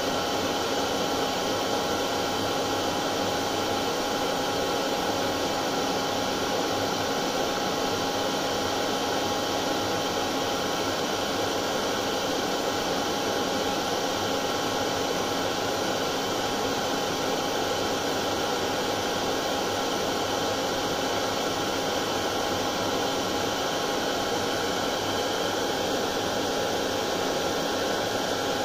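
Hair dryer running steadily: a continuous rush of blown air with an even motor whine, unchanging throughout.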